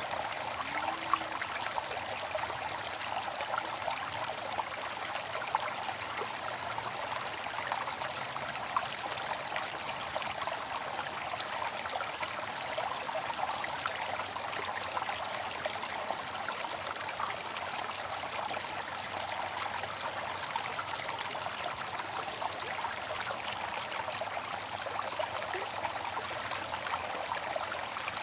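Water fountain splashing and trickling, a steady running-water sound with fine droplet patter.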